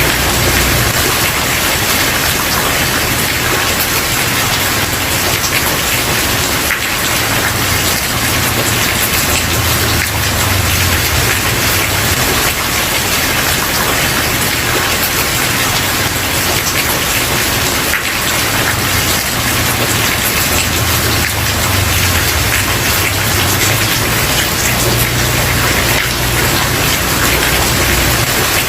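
Steady heavy rain falling on a wooden porch, with a dense patter of drops and a low rumble underneath.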